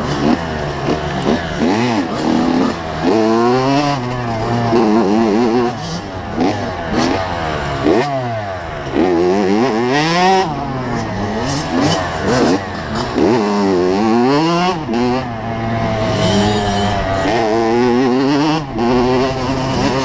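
85cc two-stroke motocross bike engine revving hard and easing off over and over, its pitch climbing and dropping every second or two as the throttle is worked through the gears.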